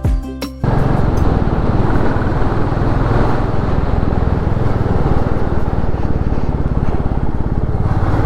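Music cuts off about half a second in. It gives way to a Royal Enfield Classic 350's single-cylinder engine running at a steady pace under way. The exhaust beats rapidly and evenly over a rushing noise.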